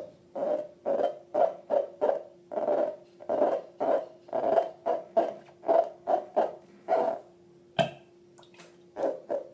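Slime being squeezed and pressed by hand, making a rhythmic run of short, hollow squelches, about two a second. The squelches stop a little after seven seconds, with a sharp click and two more squelches near the end.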